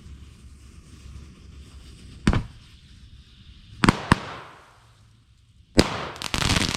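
Fireworks going off: a sharp bang about two seconds in, two more bangs in quick succession near four seconds, then another bang and a rapid run of crackling bangs near the end.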